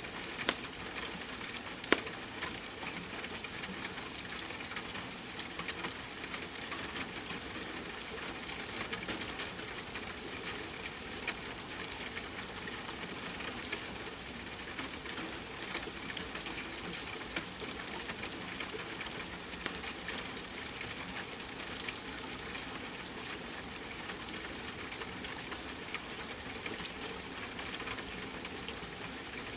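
Steady rain hiss mixed with a wood fire crackling, with scattered small clicks and two sharper pops in the first two seconds.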